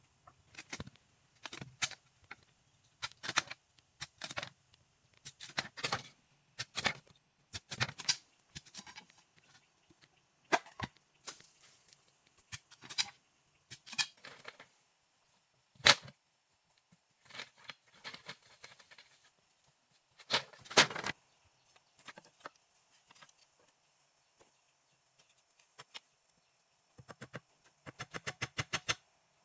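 Sharp knocks or strikes at irregular intervals, singly and in short groups, with a quick run of rapid, evenly spaced taps near the end.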